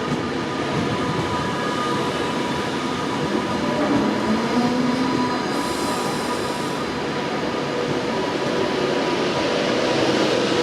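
Train moving through a station: a steady rumble of wheels on rail with thin, steady squealing tones over it and a brief hiss of extra noise about six seconds in.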